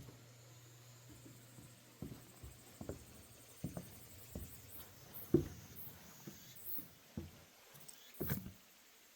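Footsteps on a wooden deck walkway: a steady walking pace of soft low thumps about one a second, one step noticeably louder about halfway.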